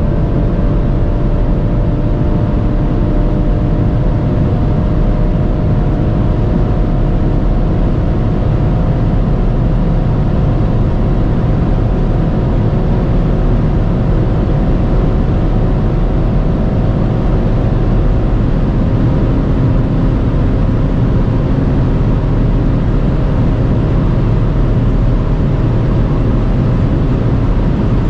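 BMW M340i's turbocharged straight-six running at a near-constant pitch over a loud low rumble of road and wind noise, its note stepping down in pitch about two-thirds of the way through.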